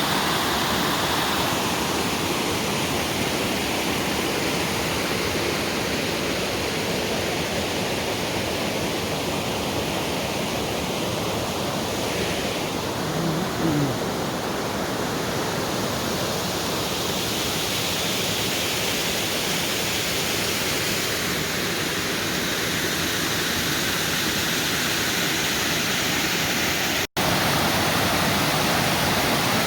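Waterfall in a forest creek: a steady, even rush of falling water, broken once by a momentary gap near the end.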